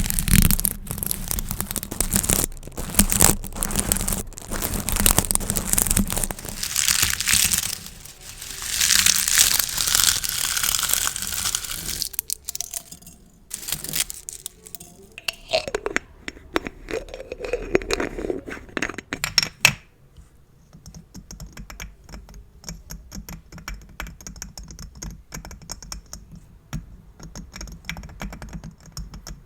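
Crinkling and rustling of plastic gift bows being handled and squeezed, loud and dense for about the first twelve seconds, then quieter. In the last third it gives way to light, rapid tapping clicks.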